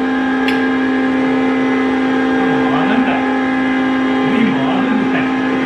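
A woodworking machine running steadily: a constant mechanical hum with a strong low tone. Faint voices come through it in the middle.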